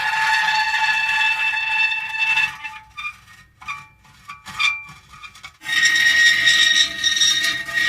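Metal creaking: a long drawn-out creak of steady pitch, then a few seconds of short broken creaks, then another long steady creak starting about two-thirds of the way in.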